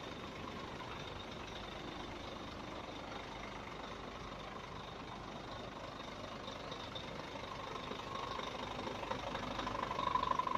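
Scania R 440 truck engine running steadily, getting louder in the last couple of seconds.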